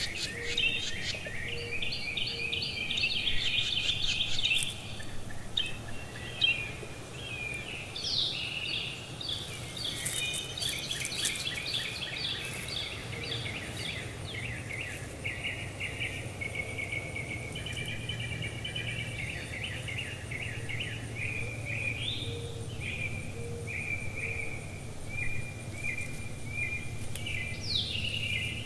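Small birds calling and singing in repeated quick chirps and trills, over a steady low background hum.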